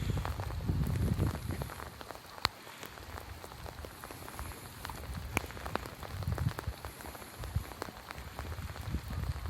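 Rain falling, with many separate drops ticking over a steady hiss and one sharper tick about two and a half seconds in. A low rumble comes and goes, strongest at the start and near the end.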